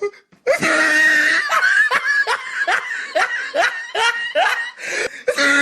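A person laughing hard: after a short drawn-out high cry, a run of high-pitched laughing bursts, about three a second.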